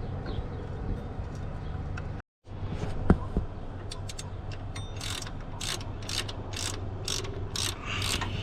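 Ratchet with a T50 Torx socket running the belt tensioner bolt in, its pawl clicking in a steady series of strokes about two a second that begins partway through.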